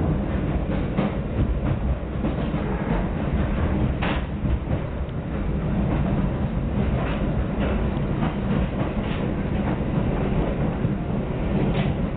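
Moving train heard from inside the carriage: a steady low rumble of wheels on rails, with scattered sharp clicks as the wheels pass over rail joints.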